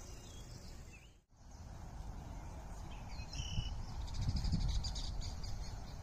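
Birds calling over a steady low outdoor rumble, with a brief dropout about a second in. A short high call comes about halfway, then a rapid, buzzy trill as the rumble swells.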